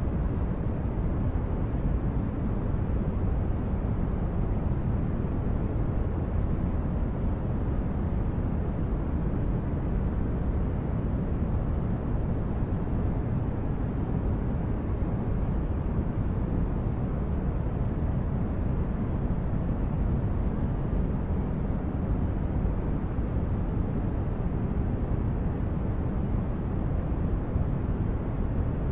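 Synthetic spaceship ambience: a steady, deep rumbling drone of brown-noise-like hum with no changes or events.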